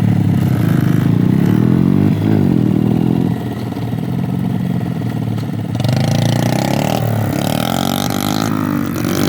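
Small 50cc kids' dirt bike engines running and revving as the bikes ride around, the engine note rising and falling. It drops back a little about a third of the way in, then comes back louder and harsher about two-thirds in.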